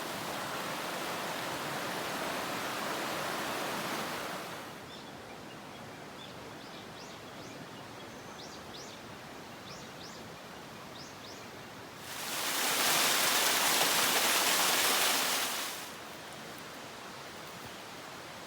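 Rushing water of a mountain stream, loud for the first four seconds and again from about twelve to sixteen seconds, with quieter stretches between. In the quieter middle stretch a bird gives a series of short high chirps.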